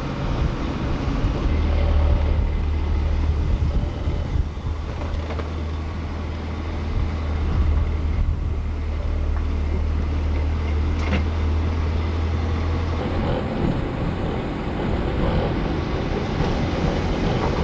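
Car running along at a steady speed, heard from inside the car: engine and tyre noise with a steady low drone that stops about thirteen seconds in.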